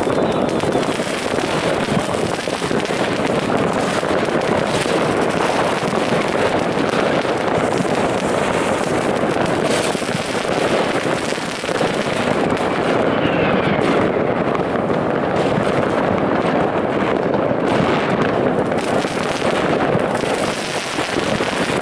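New Year's fireworks and firecrackers going off all around in a steady barrage, with overlapping bangs and crackles that never pause.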